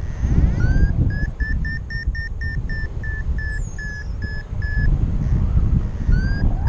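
Paragliding variometer climb tone: a run of short beeps, about three to four a second, each run opening with a short upward slide in pitch; it stops after about four seconds and starts again near the end. Heavy wind noise on the microphone is the loudest sound throughout.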